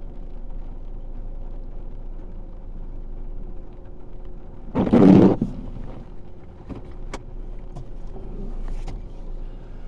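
Car cabin noise while driving in the rain: a steady low road rumble, with one brief loud whoosh about five seconds in and a few faint clicks later.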